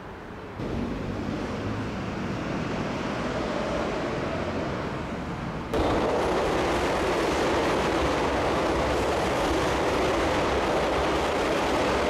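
Electric commuter train rolling along the rails as it pulls into a station platform: a steady rolling rumble that gets suddenly louder about halfway through and stays loud and even.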